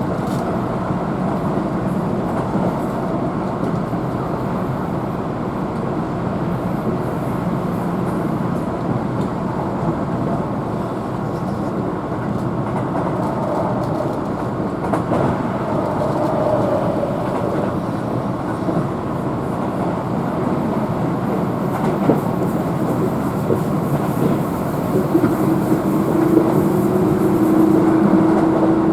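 Keihan electric train running at speed, heard from inside the passenger car: a steady rumble of wheels on rail. A steady pitched whine joins about 25 seconds in.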